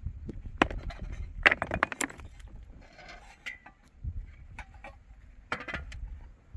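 A series of sharp knocks and clatters over a low rumble. They come thickest about a second and a half in, with another short burst near the end.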